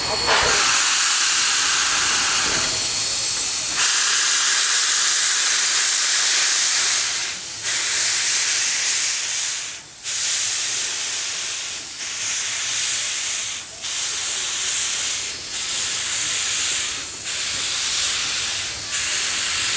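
Narrow-gauge steam locomotive letting off steam in a loud, steady hiss. From about seven seconds in, the hiss breaks into regular puffs roughly every second and a half to two seconds.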